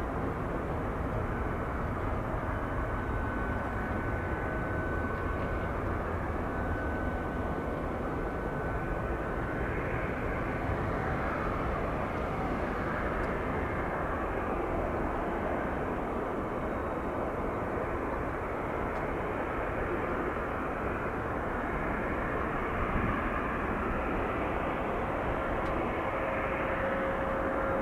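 Jet airliner engines: a steady rushing noise with a faint whine, growing louder near the end.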